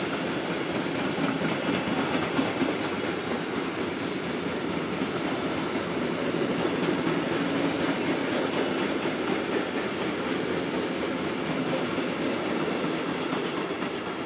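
A train passing close by, its wheels clattering steadily over the rails, beginning to fade near the end.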